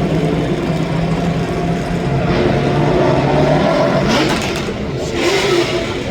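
A car engine running loudly, its pitch rising through the middle.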